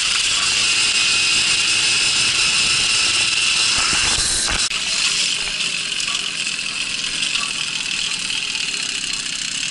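Babetta moped's small two-stroke engine running under way over rough ground with a steady hiss. About four and a half seconds in there is a knock, the low rumble drops away, and the engine runs on more quietly.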